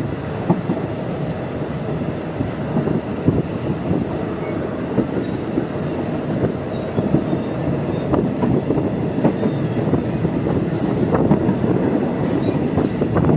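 Passenger train running along the line, heard from inside a carriage: a steady rumble of the wheels on the rails with frequent irregular clacks and rattles from the car.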